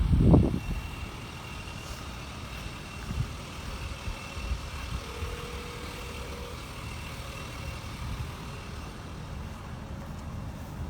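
Truck engine idling with a steady low rumble, and a brief low thump right at the start.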